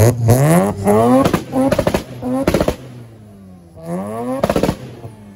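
Mazda RX-7 FC rotary engine blipped hard in several quick revs, each rev rising and falling with sharp exhaust pops and crackles; one more rev about four seconds in, then the revs die away.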